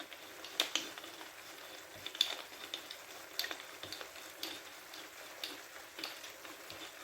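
Chicken and vegetables sizzling in a frying pan, a steady hiss, with light clicks and taps of a utensil stirring them about once a second.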